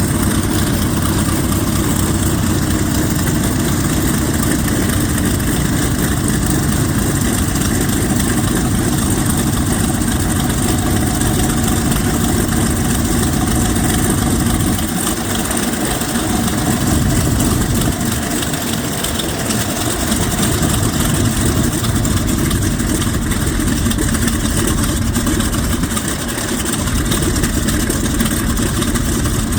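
A Vought F4U Corsair's Pratt & Whitney R-2800 radial engine running loud and steady on the ground, its exhaust and propeller making a dense drone. The low end dips briefly about halfway through and again near the end.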